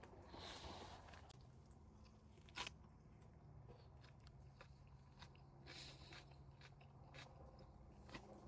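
Near silence with a few faint rustles and small clicks, the sharpest click about two and a half seconds in.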